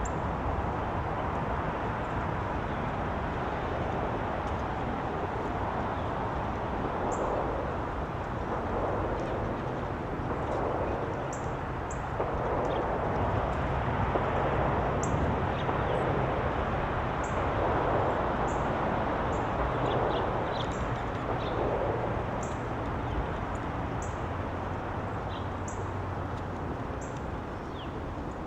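Small birds chirping, short high calls every second or two, over a steady background rumble of outdoor noise.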